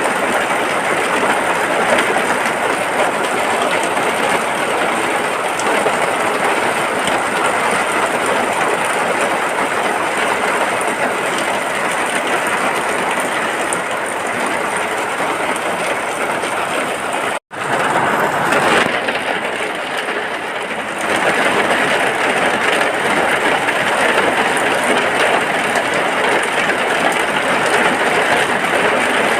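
Heavy, steady rain falling on a hut. It cuts out for an instant about two-thirds of the way through, then runs on.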